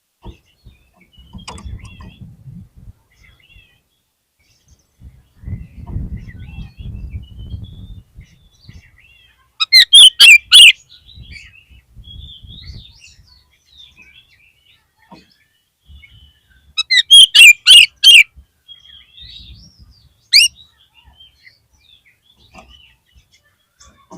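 Oriental magpie-robin calling: quieter chirps throughout, broken by two loud bursts of rapid notes, one about ten seconds in and another about seven seconds later. A quiet low rumble sits underneath in the first third.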